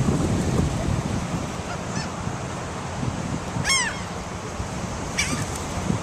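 Seagulls calling: three short harsh calls, the loudest a little past halfway, over steady wind rumble on the microphone.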